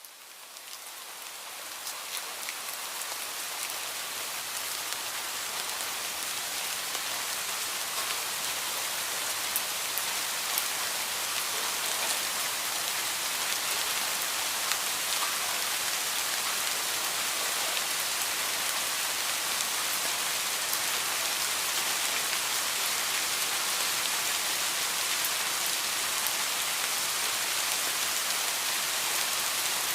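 Heavy rain falling steadily: a dense, even hiss of drops with scattered sharper taps. It fades in from silence over the first few seconds.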